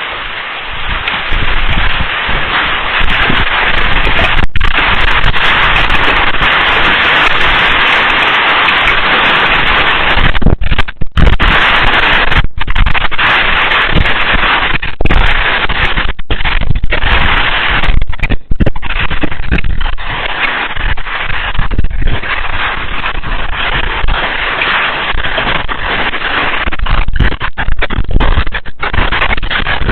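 Heavy hail pelting down: a loud, dense clatter of hailstones striking, with a few brief lulls.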